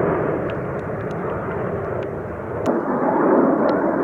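Jet aircraft engine noise, a steady rushing sound that swells and grows louder about two-thirds of the way through.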